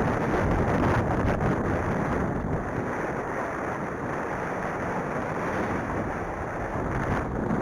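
Strong wind buffeting the microphone: a continuous low rumbling blast that surges and eases.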